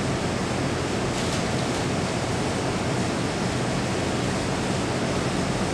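Steady, even hiss-like noise at a constant level, with no distinct sounds standing out.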